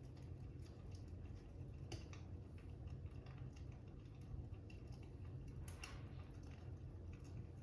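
Faint fire crackling: irregular sharp pops and crackles, the loudest about two seconds in and again near six seconds, over a steady low rumble.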